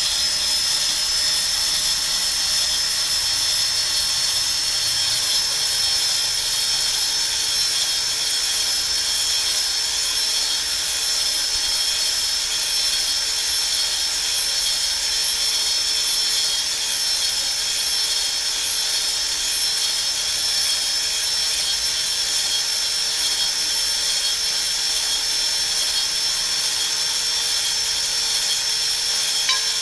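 High-speed spindle motor of a fishing-lure duplicator running steadily with a high whine, cutting while it copies a 17 cm lure.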